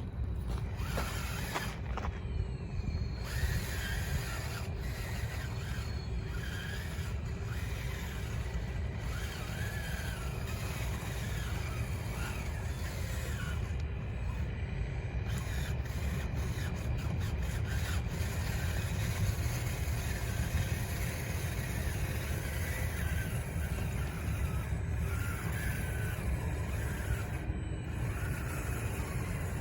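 Small electric drive motors and gearboxes of an RC construction machine whining in short rising and falling spurts, over a steady low rumble.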